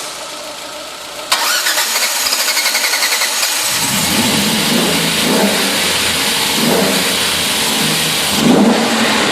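Ford Sierra XR4i's 2.9-litre V6 being started: the starter cranks with a fast even churning for about two seconds, the engine catches and runs, then is revved briefly three times.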